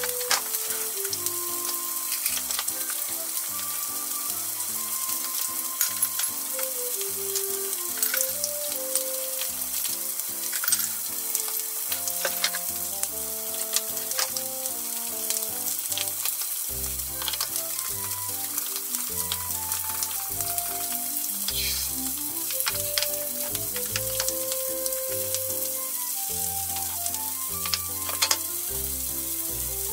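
Chicken thighs sizzling steadily in a frying pan, under soft background music whose bass comes in about halfway through. A few light clicks of utensils sound over it.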